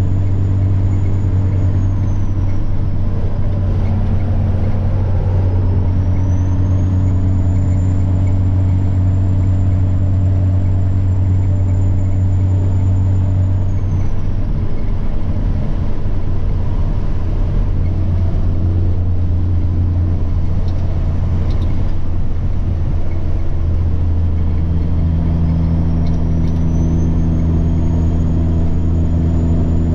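Semi truck's turbocharged diesel engine running under way with a steady low drone, over which a high turbo whine spools up, holds and fades: it drops away a couple of seconds in, climbs back and holds, fades again around the middle, and rises once more near the end.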